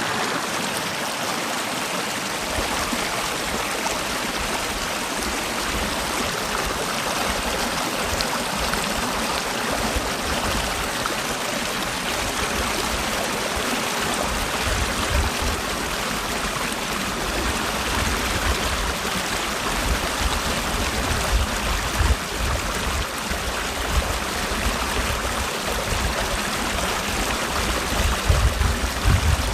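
Mountain stream rushing steadily over rocks in a valley. Irregular low rumbles come in from about halfway and are strongest near the end.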